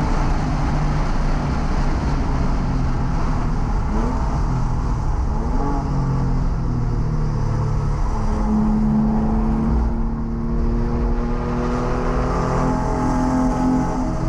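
Porsche 997's flat-six engine heard from inside the cabin under hard braking from about 120 mph, the revs jumping up briefly twice around four and five seconds in as it downshifts. From about eight seconds in it pulls again at a steady note, with wind and tyre noise throughout.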